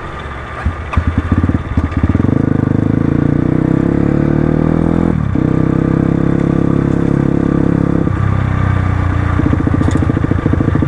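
Crossfire RM250 dirt bike engine under way: it picks up from an uneven putter about a second in, then runs strongly and steadily with its pitch rising slightly, breaks off briefly around the middle, and settles into a lower, pulsing beat near the end.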